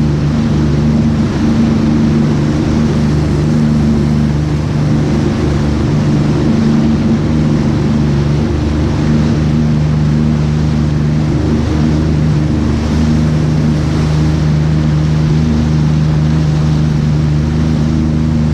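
Jet ski engine running at a steady pitch, with a broad rush of noise over it.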